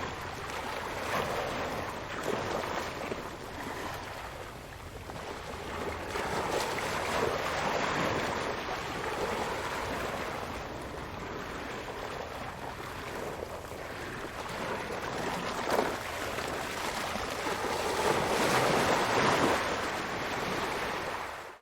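Ocean waves breaking on a shore: surf washing in and out, swelling and ebbing every few seconds, the loudest crash near the end. The sound stops abruptly at the end.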